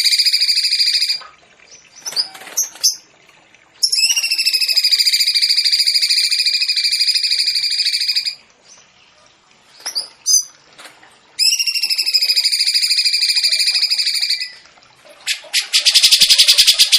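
Songbird song: three long, steady rolling notes held for several seconds each, with short sharp calls in the gaps between them. Near the end comes a fast, even rattle.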